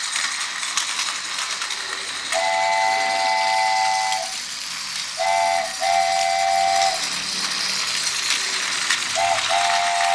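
Steam locomotive chime whistle of three tones: one long blast, then a short and a long blast, then another short and a long blast near the end, over a steady hiss with scattered rattling clicks.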